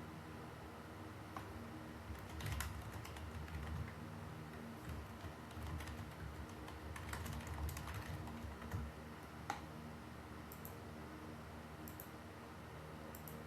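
Typing on a computer keyboard: irregular runs of key clicks and soft thuds through the middle, ending with one sharper click, over a faint steady hum.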